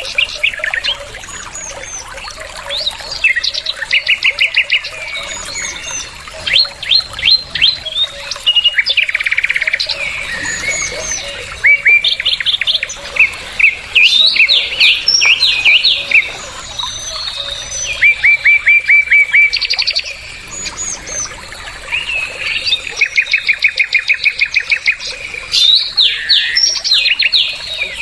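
Bulbul singing: runs of varied chirps and short whistles broken by fast trills of evenly repeated notes, coming in several bursts with brief pauses between.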